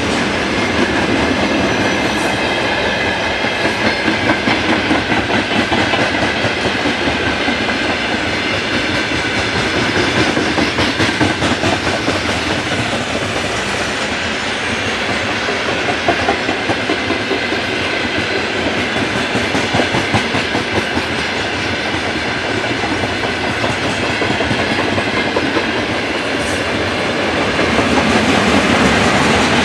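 Freight train wagons, open gondolas and tank cars, rolling past close by: a steady rumble of steel wheels on rail with a rhythmic clickety-clack as the wheels cross the rail joints.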